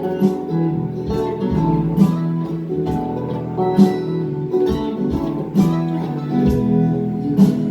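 Acoustic guitar strummed in a steady rhythm, playing an instrumental passage between the sung lines of a folk song.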